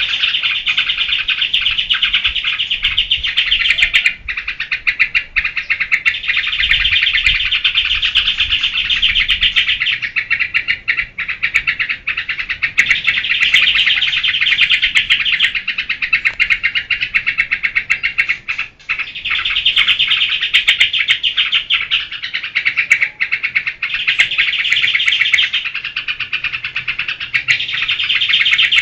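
Sooty-headed bulbul (trucukan) in fast, chattering 'geberan' song: long runs of rapid repeated notes lasting several seconds each, broken by brief pauses.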